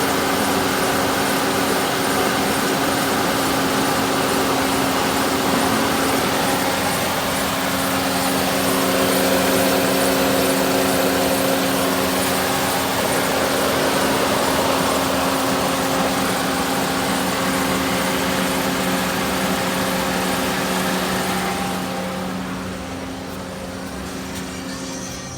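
Holden Commodore 3.6-litre V6 engine idling steadily, getting somewhat quieter near the end.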